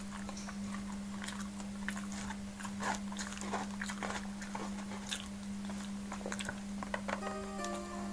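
Close-up eating sounds: wet chewing, lip smacks and mouth clicks from someone chewing baked salmon, irregular and close to the microphone, over a steady low hum. Soft background music comes in near the end.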